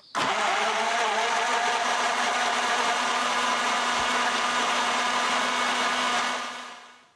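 A small electric motor running steadily with a whirring hum; it starts abruptly and fades out near the end.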